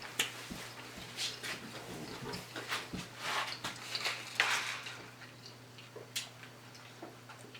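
Close-up chewing and smacking of a person eating, in irregular short bursts, over a faint steady hum.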